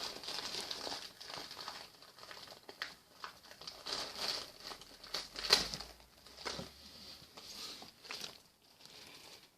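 A bag of party poppers being opened by hand: the packaging crinkles and crackles in irregular snaps, with one louder crackle past the middle.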